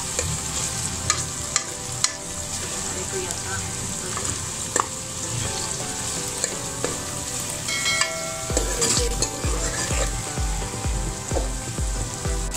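Onions and ginger-garlic paste sizzling in hot oil in a metal cooking pot, with a steel spoon scraping and clicking against the pot as they are stirred. A low pulse about twice a second comes in about two-thirds of the way through.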